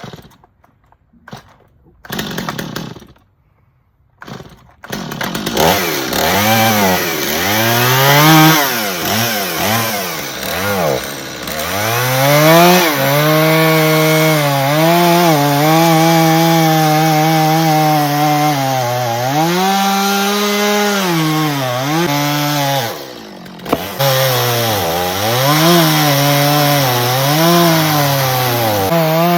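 Gas chainsaw started with a few short pulls, catching about five seconds in, then running and cutting into the top of a log post, its pitch rising and falling over and over as it cuts. A little after twenty seconds it drops off briefly, then picks up and cuts again.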